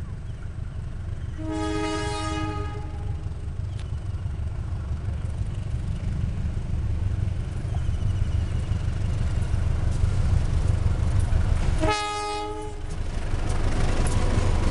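Passenger train hauled by a diesel locomotive approaching, its engine running with a steady low rumble, and the locomotive sounding its horn twice: a blast of just over a second about a second and a half in, and a shorter one near the end. The sound grows louder as the locomotive and coaches pass close, with wheels running on the rails.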